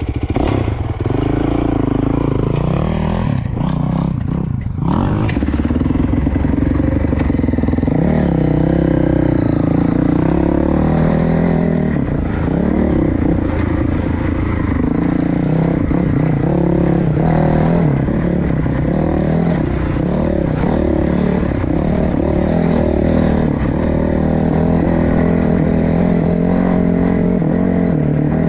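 Dirt bike engine running while riding, its pitch rising and falling with the throttle.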